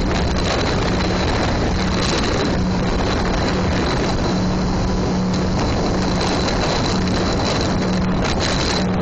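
V8 jet boat engine running hard and steadily to throw a rooster tail of water, a steady low engine note under a dense, unbroken rush of noise.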